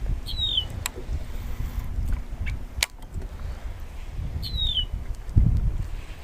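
Wind rumbling on the microphone, louder in a gust near the end, with a bird's short call sliding down in pitch twice, about four seconds apart, and a few sharp clicks.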